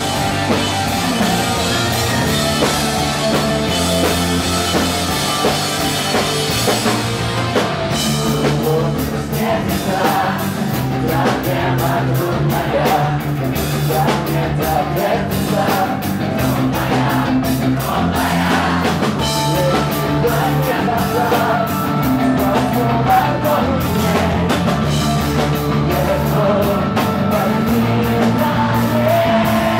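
Rock band playing live. The drum kit comes in with steady beats about eight seconds in, over sustained guitar and bass notes.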